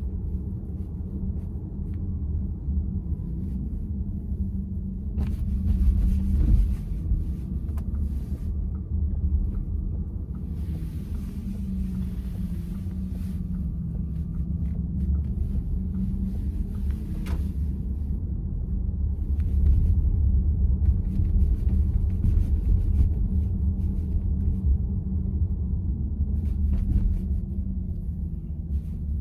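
Road and tyre rumble inside the cabin of a VW ID.4 electric car while driving, steady throughout, with a few faint ticks.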